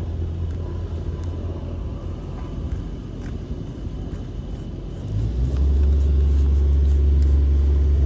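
A machine's steady low hum that drops away at the start, leaving a lower rumble, then comes back strongly about five seconds in and holds.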